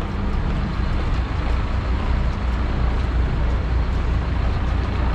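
Fendt 724 Vario tractor's 6.1-litre six-cylinder diesel engine running steadily with a low, even hum.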